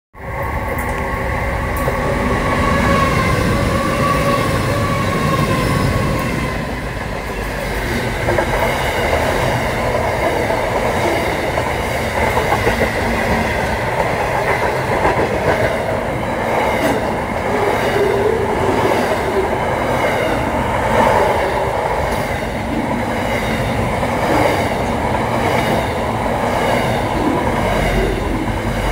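Pacific National container freight train passing close by: a steady rumble with a high whine in the first six seconds, then regular clicking of the wagons' wheels over the rail joints.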